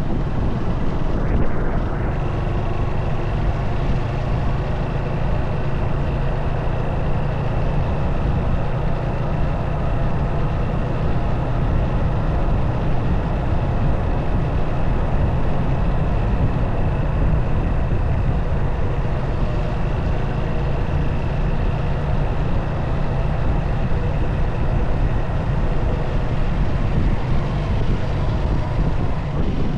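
Motorcycle riding along at a steady pace: the engine running with road and wind noise in one continuous, unbroken drone.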